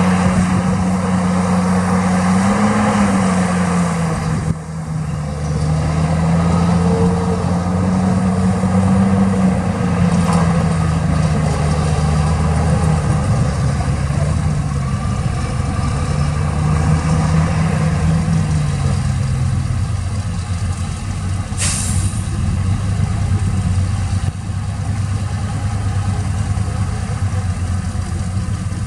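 Heavy diesel engine of an earthmoving machine working, its engine speed rising and falling, then dropping to a steady idle about two-thirds of the way through. A short hiss sounds once shortly after the engine settles.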